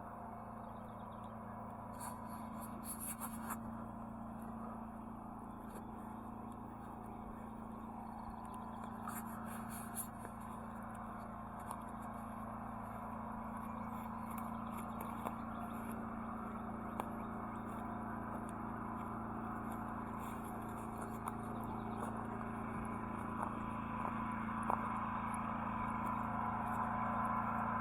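Outdoor background noise: a steady low hum under a haze of noise that grows gradually louder, with faint high chirps about two seconds in and again about nine seconds in.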